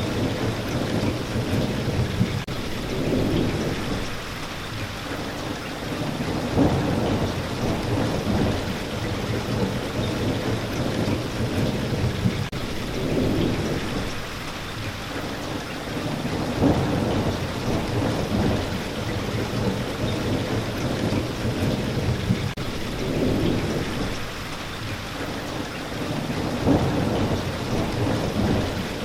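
Steady rain falling, with low rolling thunder rumbles that swell and fade every few seconds.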